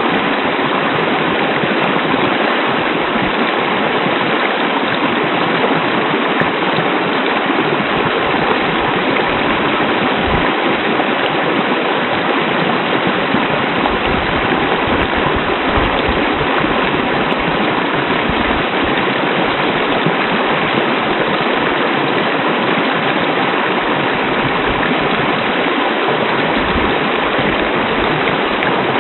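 Waterfall and stream water rushing steadily, a loud, constant splashing hiss.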